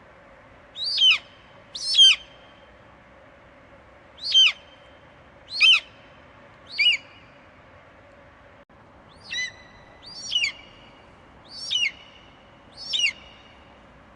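An eagle screeching: nine short, high calls, each falling in pitch, coming at uneven intervals of one to two and a half seconds, over a faint steady hum.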